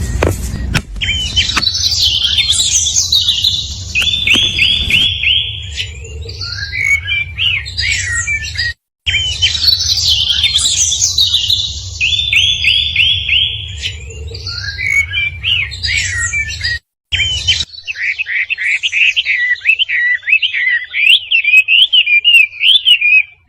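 Birds chirping and singing, with varied chirps and trills over a low steady rumble; the same stretch of calls plays twice, each time cut off by a brief dropout. Near the end a rapid run of rising-and-falling whistled notes takes over and the rumble fades.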